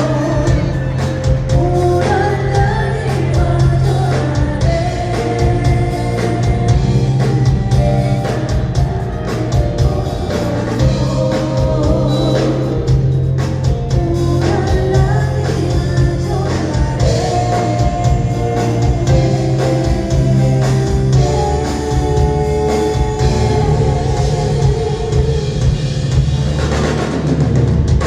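Live band playing a song with a steady drum beat, with singing over it.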